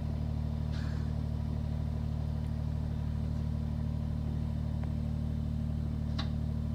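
Kubota BX2380 sub-compact tractor's three-cylinder diesel engine running at a steady speed, a continuous low drone with no change in pitch.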